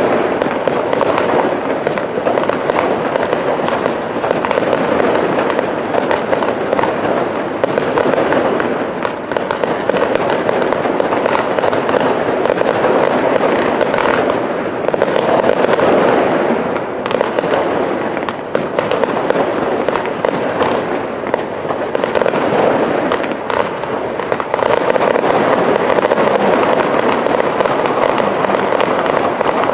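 Professional aerial fireworks display: shells bursting and crackling continuously, with many sharp reports in quick succession throughout.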